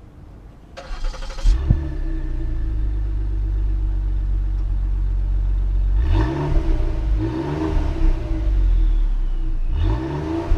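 The 2016 Ford Taurus SHO's 3.5-litre twin-turbo EcoBoost V6 is cranked by the starter, catches about a second and a half in and settles into idle. It is then revved three times, the pitch rising and falling back each time.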